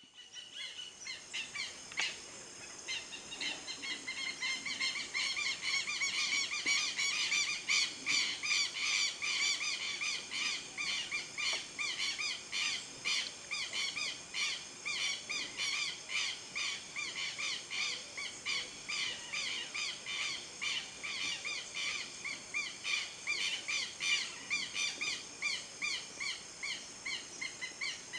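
Birds calling: a dense chorus of short chirps repeated a few times a second.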